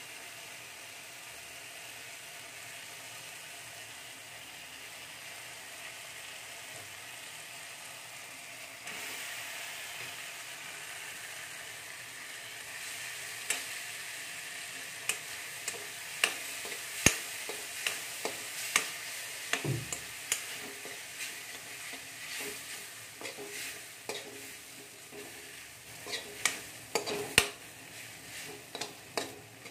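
Maggi noodles and chopped vegetables sizzling in oil in a metal wok, a steady frying hiss that grows louder about nine seconds in. From about halfway, a steel spoon clinks and scrapes against the pan again and again as the noodles are stirred.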